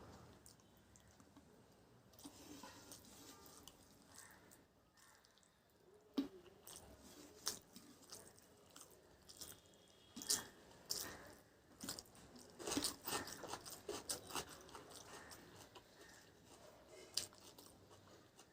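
A person chewing food, with sharp wet clicks and crunches. It is quiet for the first six seconds or so, then the clicks and crunches come thick and fast, and they thin out near the end.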